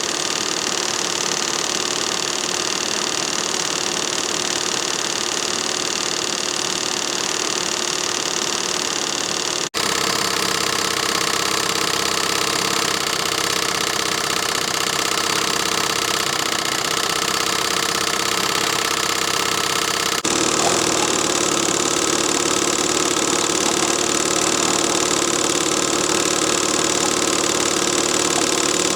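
Small hand-built single-cylinder double-acting slide-valve steam engine (13 mm bore, 15 mm stroke) running steadily under load, driving a 70 mm screw propeller: a steady hiss with a steady hum. The sound changes abruptly twice.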